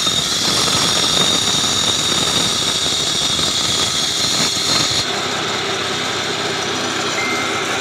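Concrete cutting machine running steadily: an engine and a continuous noise with a steady high whine. The sound becomes duller and slightly quieter abruptly about five seconds in.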